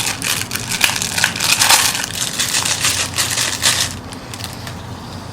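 Crinkling of the plastic packaging around a new fork oil seal as it is handled. A dense run of crackles lasts about four seconds, then stops.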